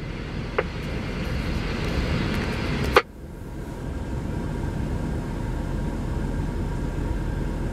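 Steady low rumble and hiss, with a sharp click about three seconds in, after which the rumble drops briefly and builds back.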